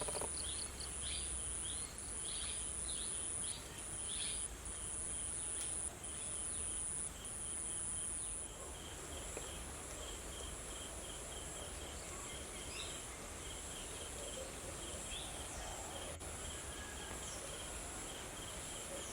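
Garden ambience of insects shrilling: a high, shrill trill in on-off bursts of about a second each that stops about eight seconds in, over a steady high hiss. Short pips repeat about twice a second through most of the stretch, and a few bird chirps come in the first few seconds.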